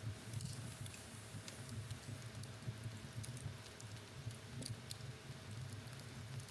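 Fire in a fireplace crackling, with small irregular pops and ticks over a low, steady rumble.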